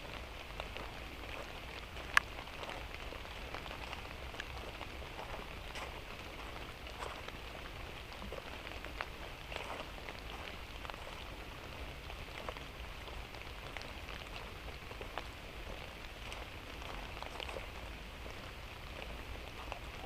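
Light drizzling rain falling steadily, with scattered individual drops ticking on surfaces and one sharper click about two seconds in.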